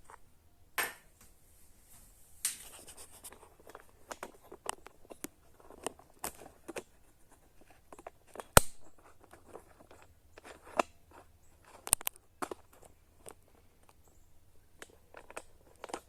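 Irregular clicks, scrapes and knocks of hands handling bidet hose fittings and plastic parts, with one sharp, loud click about halfway through.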